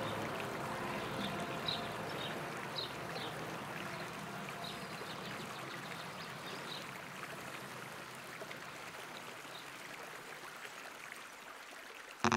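River water flowing steadily, with short high bird chirps over it through the first half; the whole sound slowly fades.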